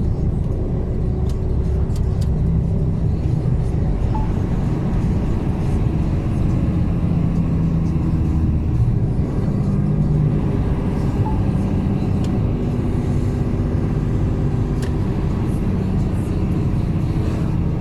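Mercedes-Benz Actros truck engine running steadily, heard from inside the cab, its pitch shifting a little every few seconds with load on a winding mountain descent.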